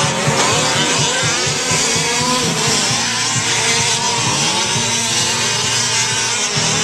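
Several fifth-scale off-road RC trucks' small two-stroke gas engines revving and buzzing together, their pitches rising and falling as the trucks accelerate and brake around the track.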